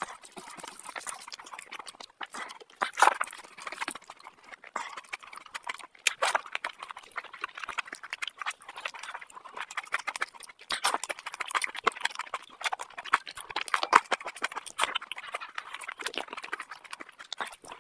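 Close-miked wet chewing and lip-smacking of a person eating curry and meat by hand, with irregular sharp mouth clicks and smacks throughout.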